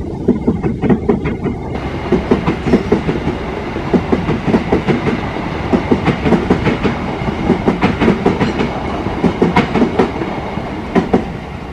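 Parcel train's wagons rolling past close by, their wheels clattering rhythmically over the rail joints with a steady rumble underneath. The clatter stops near the end as the last wagon passes.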